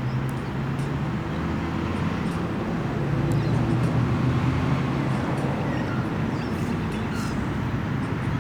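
Vehicle engine running steadily with road noise: a low, even hum that swells slightly about three to four seconds in.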